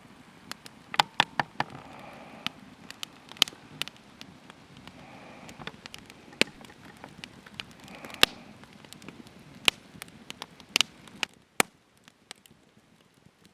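Wood campfire crackling, with irregular sharp pops and snaps of varying loudness over a low hiss, dying down near the end.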